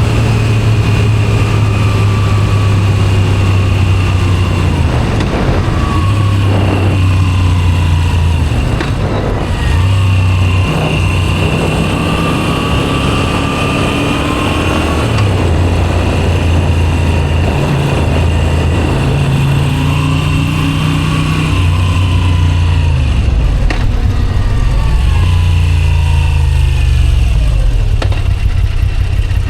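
Moto Guzzi V7 Special 850's air-cooled transverse V-twin running through a Zard aftermarket exhaust while riding. The engine note climbs in pitch as it accelerates and drops back at each gear change, several times over.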